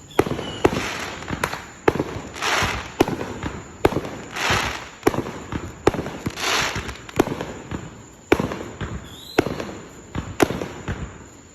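Fireworks going off: a quick series of sharp bangs, roughly one to two a second, with three longer rushing crackles among them.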